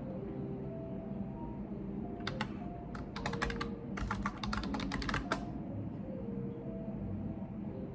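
Computer keyboard typing: a quick run of key clicks for about three seconds in the middle, over a steady low room hum.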